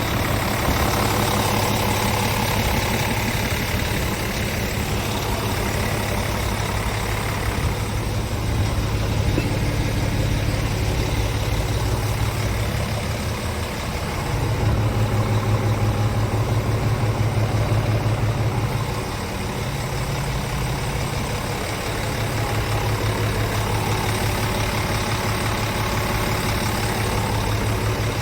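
Scania G410 truck's 13-litre straight-six diesel idling steadily, growing somewhat louder for a few seconds mid-way.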